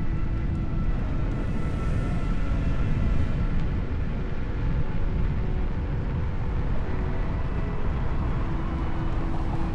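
Wind rush on the microphone and road rumble from riding a Kugo Kirin U2 (KingSong 16S) electric unicycle, steady throughout, with a faint thin steady whine above it.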